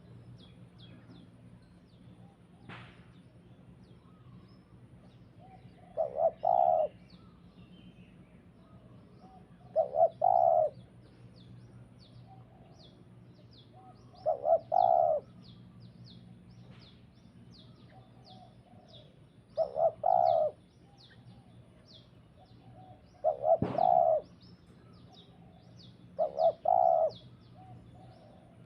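A dove cooing, six calls of about a second each, repeated roughly every four seconds. Faint, quick high-pitched chirps of small birds continue behind it.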